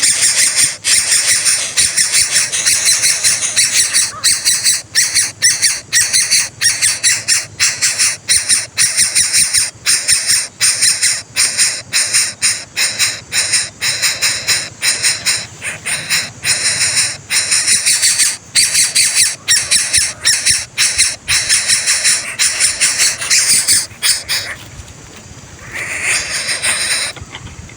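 Coucal (burung bubut) chicks in the nest giving harsh, raspy begging calls in rapid succession. The calls stop about 24 seconds in, with one more short burst near the end.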